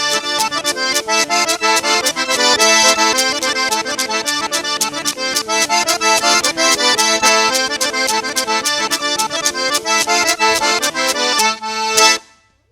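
Traditional accordion music, fast with rapid repeated notes, stopping abruptly near the end.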